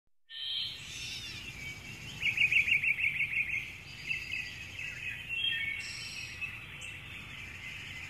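Birds chirping and calling, with a fast trill of quickly repeated notes from about two seconds in to about three and a half seconds.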